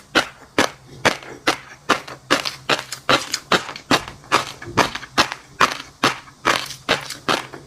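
Close-miked chewing of crunchy food, with crisp crunches coming steadily about three times a second.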